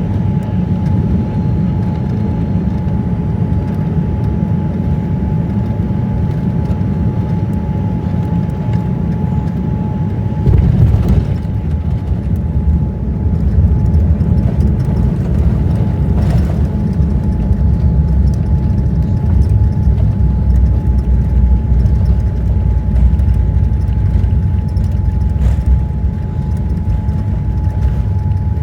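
Boeing 787-9 airliner cabin noise: a steady low rumble with a constant hum above it, the rumble growing heavier about ten seconds in.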